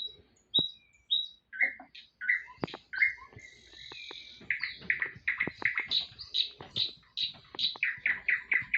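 Small birds chirping: scattered short chirps at first, then a quick even run of notes, about three a second, in the second half, with a few faint clicks among them.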